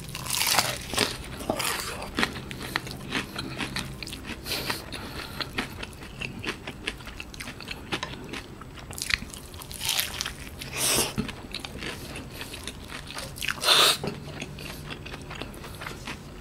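Biting into and chewing a KFC Cheezilla Double Down, a sandwich of two breaded fried chicken fillets with melted cheese: crisp crunching of the fried coating mixed with chewing, close to the microphone, with a few louder crunches later on.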